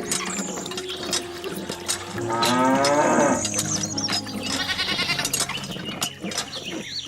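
A cow mooing, one loud call about two seconds in that slides down in pitch, over background music.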